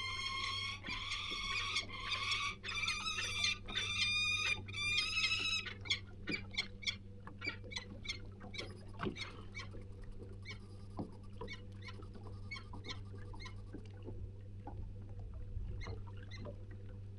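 Birds calling near their cliff nest: a run of loud, harsh, repeated calls for the first five seconds or so, then scattered short chirps. A steady low hum runs underneath.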